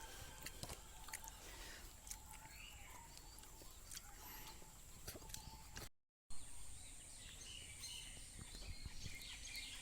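Faint outdoor ambience with scattered bird chirps, which grow more frequent in the second half. The sound cuts out completely for a moment about six seconds in.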